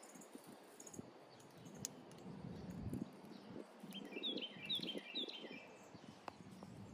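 A bird chirps three times in quick succession, short falling notes, about four seconds in, over faint outdoor quiet with soft rustling.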